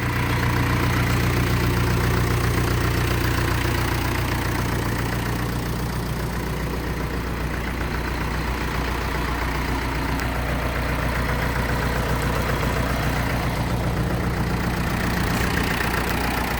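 Mahindra 485 DI tractor's diesel engine running steadily at idle.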